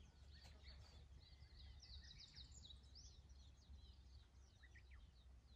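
Near silence with faint small birds chirping, a quick run of chirps about two seconds in and scattered calls after.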